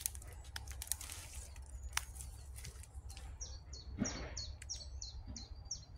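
A small songbird calling a quick run of about eight high notes, each sliding down, through the second half, with a few faint clicks earlier on.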